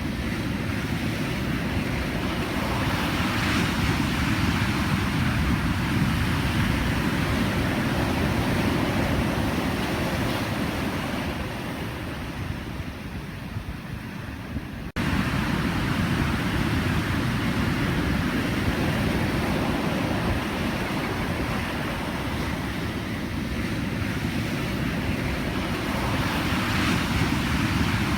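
Ocean surf: a steady wash of breaking waves that swells and eases slowly. About halfway through, the sound softens and then cuts abruptly, coming back louder at once, like a splice in the recording.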